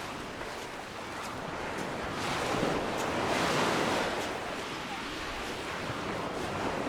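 Sea waves washing onto the beach: a steady surf hiss, with one wave swelling and breaking about two and a half seconds in, then ebbing.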